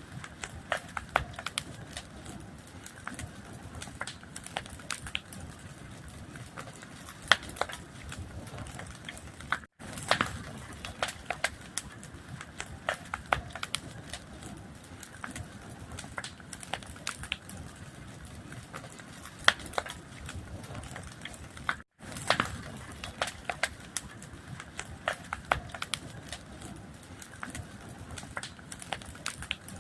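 Wood fire crackling, with constant hiss and irregular sharp pops and snaps. The sound cuts out for a split second twice, about ten seconds in and again a little after twenty seconds.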